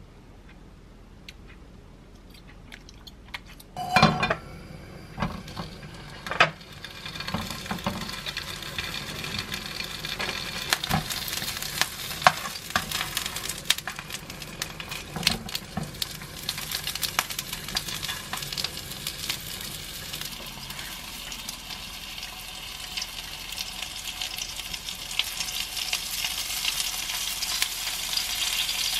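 Rice cake and sausage skewers frying in a nonstick pan: a sizzle that starts after a loud knock about four seconds in and builds steadily, with sharp clicks of metal tongs turning the skewers.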